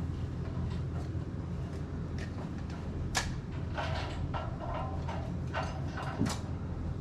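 Metal motorcycle parts and tools being handled during a rear-wheel reinstall: a run of clicks and short scrapes, with a sharp click about three seconds in and another about six seconds in, over a steady low hum.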